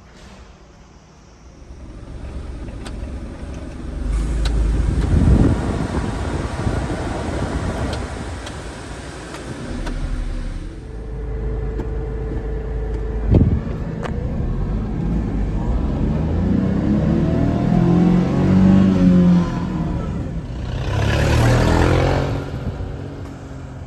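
2001 Suzuki Carry kei truck's small three-cylinder engine revving up and falling back several times, as in driving through the gears, with two sharp knocks partway through. A brief rush of noise comes near the end.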